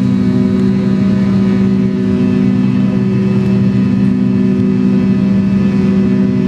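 Steady drone of a McDonnell Douglas MD-83's rear-mounted jet engines idling, heard inside the cabin: a low hum with several steady tones over a rumble.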